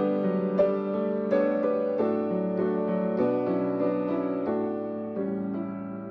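Solo piano playing slow music, a chord or note struck about every two-thirds of a second and left to ring, getting gradually quieter.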